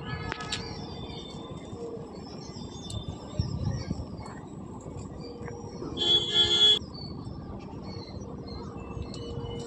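Outdoor background of a steady low rumble with scattered faint bird chirps. A little past halfway, a short horn-like toot sounds for under a second.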